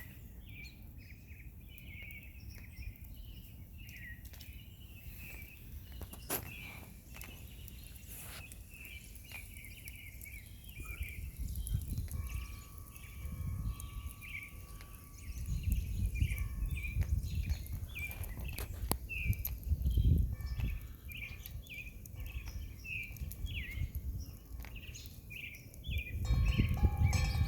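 Chorus of songbirds singing, a steady stream of short, quick chirps and notes. From about the middle on there are bursts of low rumble under the song.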